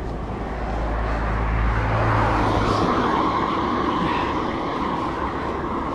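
Road noise while cycling by a road: a passing motor vehicle swells and fades over a steady rush of wind on the microphone, and the low rumble cuts off about three seconds in.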